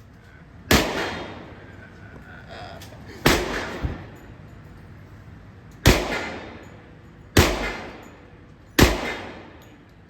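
Five gunshots at uneven intervals of one and a half to two and a half seconds, each followed by a short echoing tail.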